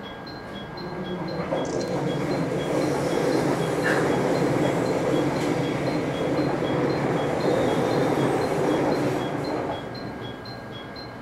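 Limited express Kamome electric train passing on the adjacent track, heard through the closed window of a stopped local train. A rush of wheel and motor noise swells about a second in, holds, and falls away near the end. A faint high ding repeats about twice a second throughout.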